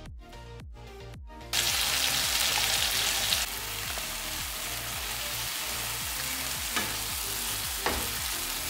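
Butter chicken tomato gravy sizzling in a non-stick frying pan as it is stirred with a spatula, starting suddenly about a second and a half in and loudest for the first couple of seconds, with a few scrapes of the spatula near the end. Upbeat electronic music plays alone before the sizzle and faintly under it.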